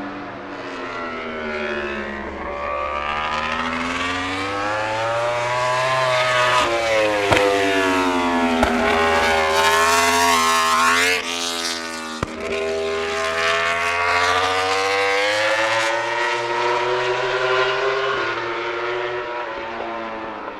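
MotoGP racing motorcycle engine at full race pace, its pitch rising and falling again and again through gear changes and throttle swings. It is loudest near the middle as the bike passes close, then recedes.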